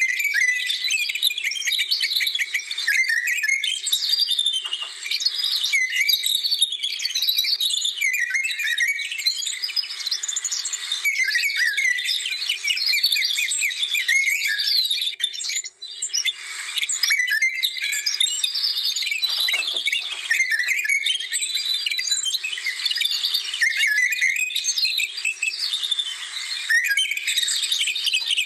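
Dense chorus of many small birds singing and chirping at once, their calls overlapping without a break.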